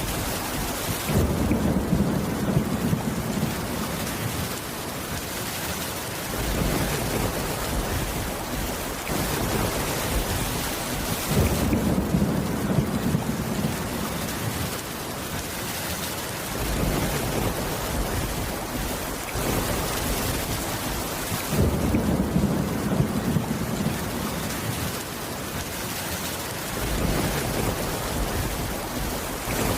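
Steady rain with low rumbles of thunder that swell and fade about every ten seconds.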